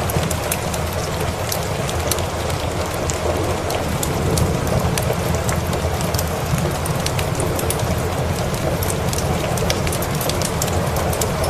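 Steady rain mixed with a crackling wood fire, many sharp little pops scattered throughout over a low steady rumble.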